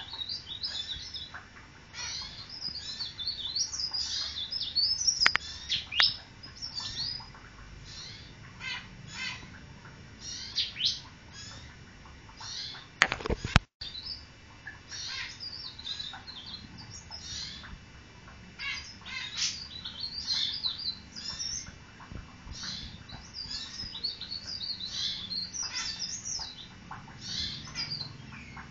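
A cikrak daun leaf warbler singing a fast, busy stream of high chirps and twittering phrases. A sharp knock sounds about halfway through.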